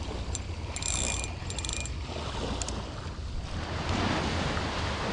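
Fishing reel clicking in short, fast bursts, the sound of line being wound in, over steady wind and surf noise. Near the end the wind and surf swell.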